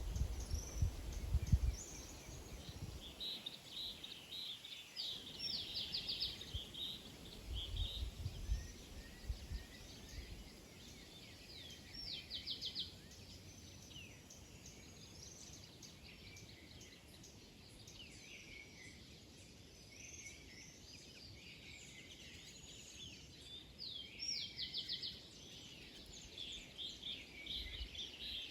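Many small birds chirping and calling at once, with a quick rattling trill three times. Low rumbles come near the start and about eight seconds in.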